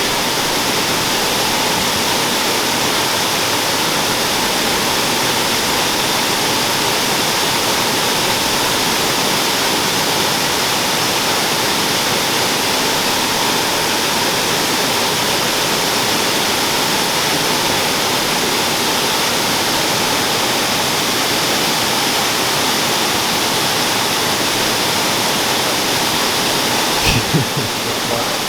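Waterfall rushing steadily, with a brief low bump near the end.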